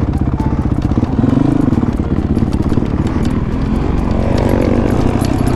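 Honda CRF450 dirt bike's single-cylinder four-stroke engine running while riding a trail, its note rising and falling with the throttle.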